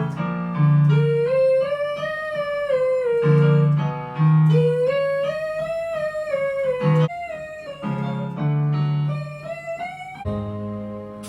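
A voice singing long, wordless phrases that rise and fall in smooth arcs, over piano chords.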